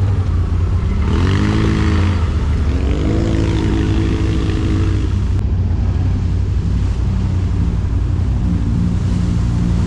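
ATV (quad bike) engine running under throttle, the pitch rising as it revs up about a second in and again around three seconds in, then holding steadier.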